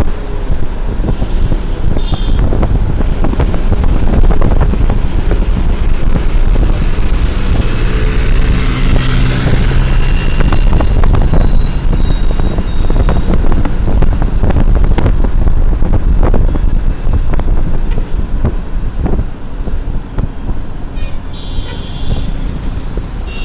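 Road traffic noise: engines running and passing, with a couple of short vehicle horn toots, about two seconds in and near the end. A deep, steady rumble runs underneath.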